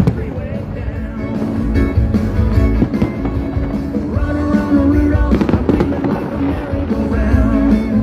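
Music playing through loudspeakers, with fireworks bangs going off over it several times.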